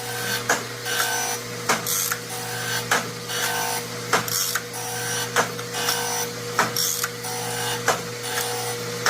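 A machine running in a steady cycle: a constant hum with a sharp click about every 1.2 seconds and short whirring blips between the clicks.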